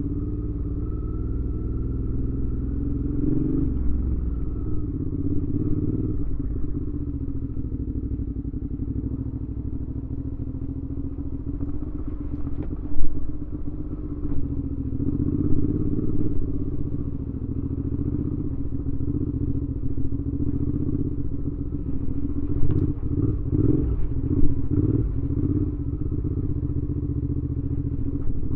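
2019 Suzuki V-Strom 650's V-twin engine running through a Delkevic aftermarket exhaust while the motorcycle is ridden, its pitch shifting only a little. A few short sharp knocks stand out, the loudest about halfway through and a cluster near the end.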